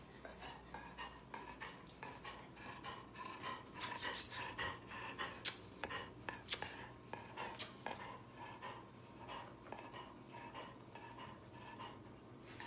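Faint, irregular light clicks and clatters of small hard objects knocking together, busiest from about four to seven seconds in.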